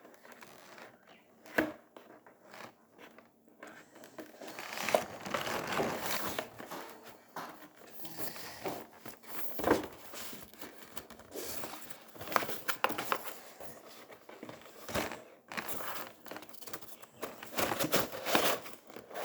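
Plastic and cardboard toy packaging being handled and crinkled, in irregular stretches of rustling, with a few sharp knocks as parts are moved about.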